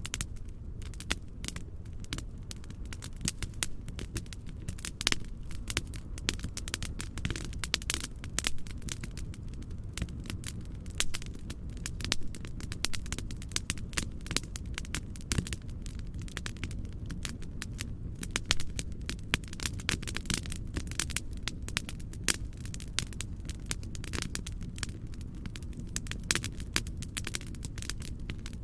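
Wood fire crackling in a fireplace: dense, irregular sharp pops and snaps over a steady low rumble of noise.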